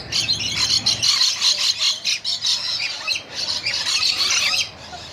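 A flock of rainbow lorikeets screeching, many shrill, harsh calls overlapping without a break, thinning out near the end.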